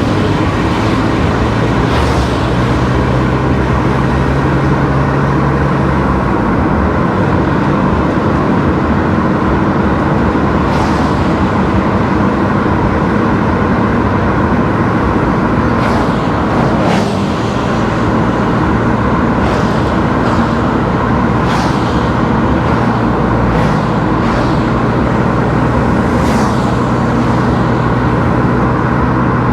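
A car driving along a road, with steady engine and tyre noise and the engine hum shifting pitch about six seconds in. A few short, sharp sounds stand out over the road noise.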